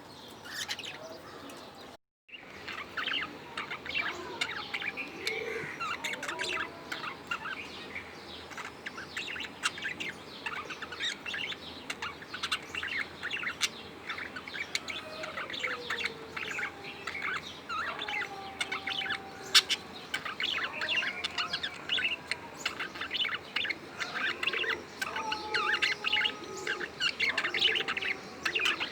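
Budgerigars chattering: a dense, continuous run of quick high chirps and warbles, with some lower sliding notes among them. The sound cuts out briefly about two seconds in.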